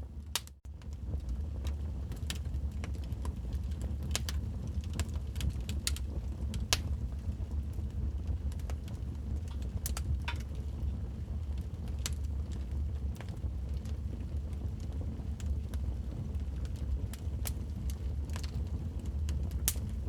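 Wood fire burning in a fireplace: a steady low rumble with irregular sharp crackles and pops. The sound cuts out briefly about half a second in.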